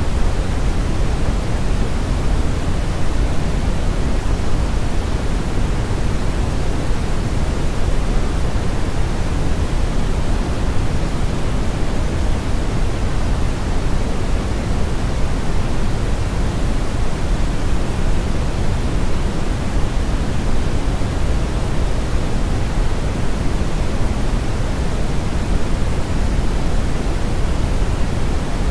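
Brown noise: a steady, even rushing hiss with most of its weight in the low end and little treble.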